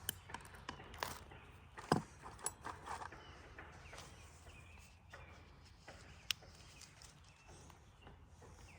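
Scattered light clicks and knocks of hand tools and small parts being handled during carburetor work on a generator, the sharpest about two seconds in, over a faint low hum. The generator is not running.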